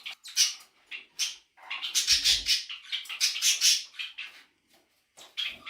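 A pet parrot calling in a run of short, harsh, scratchy squawks, with a brief pause near the end.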